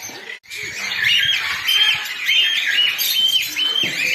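A bird calling over and over: short calls that each rise to a briefly held high note and drop away, about two a second, starting after a brief gap near the start.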